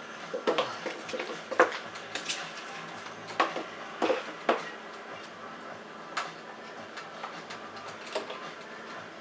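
Utensil clicking and tapping against ice cube trays as green sofrito puree is spooned into them: scattered, irregular short clicks and clatters.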